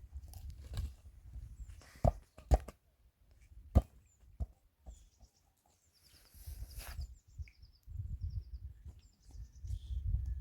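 Outdoor sound of gusty wind rumbling on the microphone, with a few sharp knocks about two to four seconds in and short high chirps like small birds in the middle and later part.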